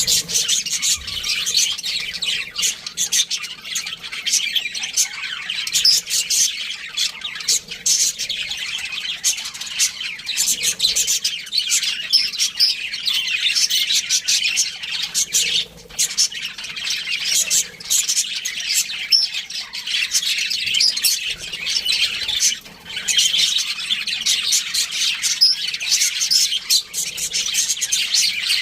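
A flock of budgerigars (pet parakeets) chirping and chattering together, a dense, continuous warble of many short high squawks and tweets.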